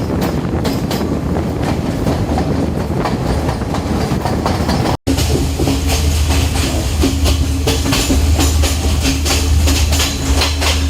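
Diesel passenger train running at speed: wheels clattering over the rail joints with a rushing noise. After a brief cut about halfway, a steady low hum runs under the clatter.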